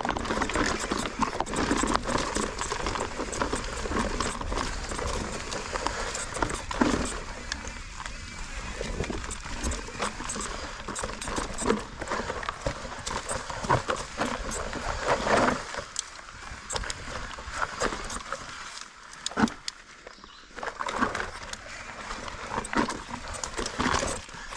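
Mountain bike riding over rocky singletrack: tyres rolling and crunching on rock while the bike rattles, with frequent irregular knocks and clatters from the frame and drivetrain. It eases off briefly about three-quarters of the way through.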